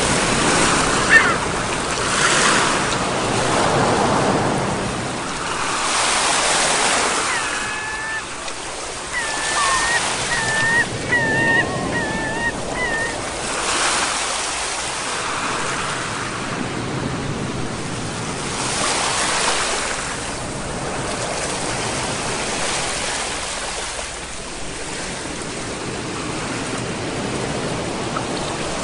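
Sea waves surging and washing in, swelling every few seconds. A run of short, high chirping calls comes in the middle.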